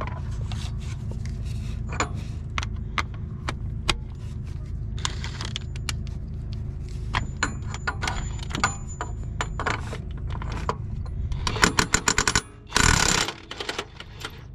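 Metal tools clinking and knocking on the fan clutch, then near the end an impact gun hammering in rapid short bursts, over a steady low hum.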